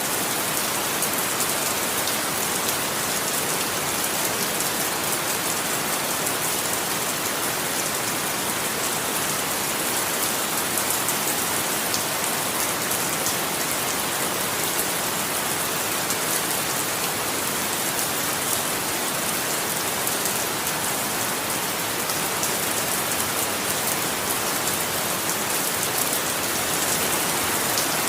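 Steady rain falling, a dense even hiss of drops with fine pattering ticks and no thunder.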